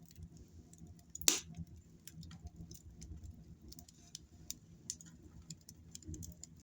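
Wood fire in a small wood-burning stove crackling: sparse sharp pops and ticks, with one louder snap about a second in, over a low rumble.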